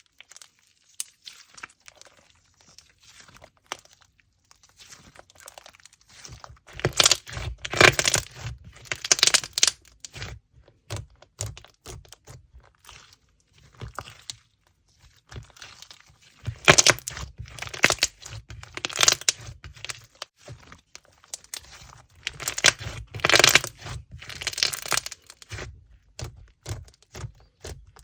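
Slime being squeezed and pressed by hand, giving crunchy crackling and popping clicks in three louder spells with scattered softer clicks between.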